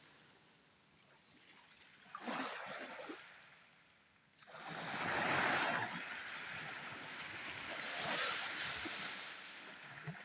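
Surf breaking on the shore, coming in three swells of rushing water, the loudest about five seconds in.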